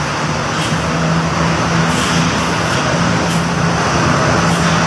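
Double-decker coach's diesel engine running steadily at low speed, a constant low drone, as the bus creeps forward onto a ferry ramp.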